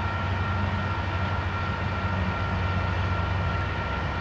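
Steady low rumble of an approaching train, still distant, with a few faint high tones held steadily above it.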